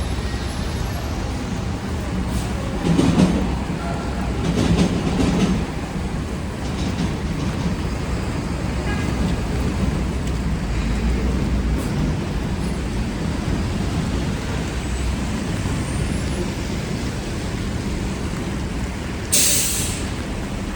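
Midtown street traffic: a steady low rumble of passing vehicles, swelling twice a few seconds in. A sudden short hiss sounds near the end.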